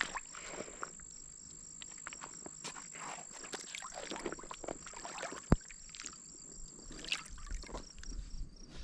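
Shallow water sloshing and lapping in small irregular splashes as someone moves slowly through it, over a steady high insect trill that stops near the end. One sharp knock about five and a half seconds in.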